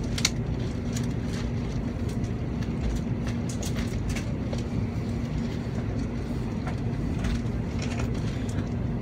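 Cabin sound of an N700A Shinkansen train beginning to pull away from the platform: a steady low hum and rumble with a faint steady tone, and a few light clicks.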